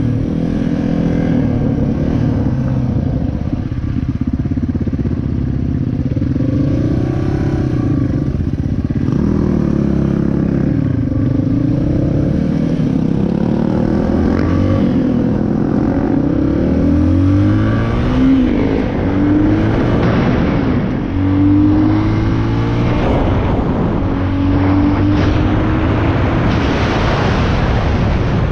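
Dirt bike engine being ridden, its revs repeatedly rising and falling.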